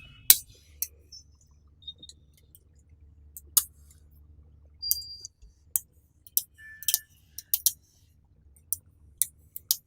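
Small magnetic metal balls clicking and snapping together one at a time: about a dozen sharp clicks at irregular intervals, some leaving a brief high metallic ring.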